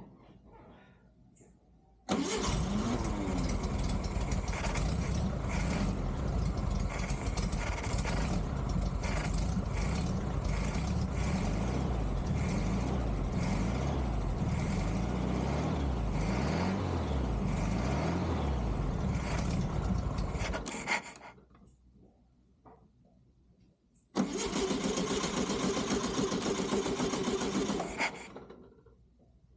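1969 Volkswagen Beetle air-cooled flat-four engine running, on only the fuel poured into its carburettor bowl. It comes in suddenly about two seconds in, runs for nearly twenty seconds with a few changes in speed, and dies away. It runs again for about four seconds near the end and stops.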